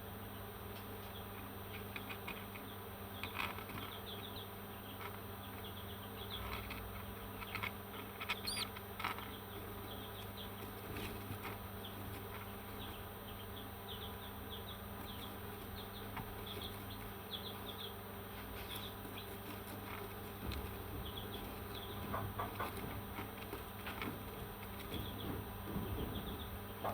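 Parrot chirping and chattering softly in short scattered calls, with one clear rising whistle about eight seconds in, over a steady background hum.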